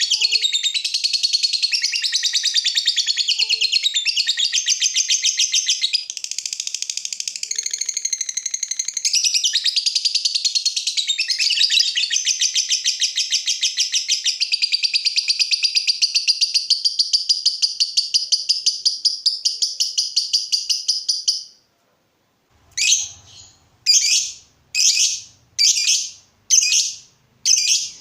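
Lovebird singing a long, fast, unbroken chattering trill of rapid high-pitched pulses, which cuts off suddenly about three-quarters of the way through. After a brief pause come a string of short shrill single calls, about one a second.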